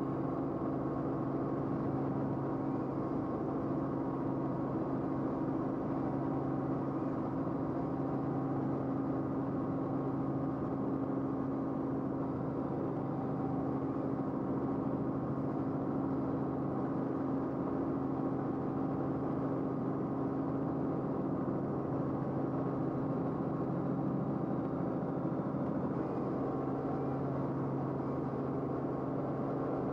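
Steady drone of an aircraft in flight, a constant low hum with no change in pitch or level.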